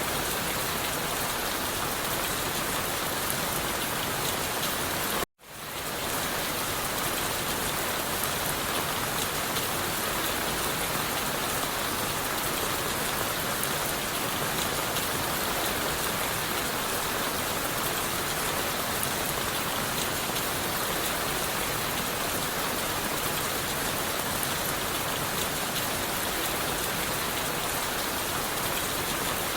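Steady heavy rain falling on leaves and wood, an even dense hiss. About five seconds in it cuts out abruptly for a split second, then fades back in.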